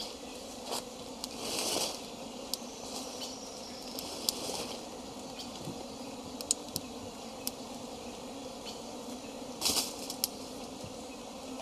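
Honey bees buzzing steadily in a low hum, with scattered sharp clicks and two short rustling bursts, one near the start and one about ten seconds in.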